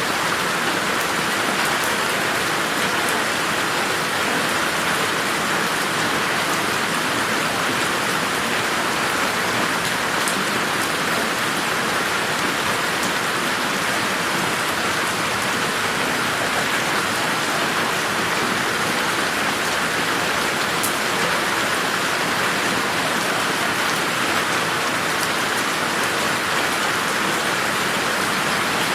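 Steady rain falling on garden plants and surfaces, an even hiss of many drops with a few sharper drips now and then.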